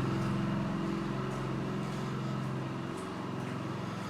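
Wen portable generator engine running steadily under a light load, only the camper's refrigerators drawing power. The steady engine tone gradually gets quieter.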